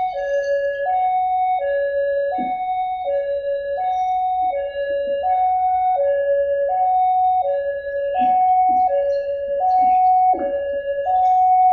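Railway level-crossing warning alarm sounding a steady two-tone electronic signal, alternating a high and a low note about every three-quarters of a second, warning that a train is approaching.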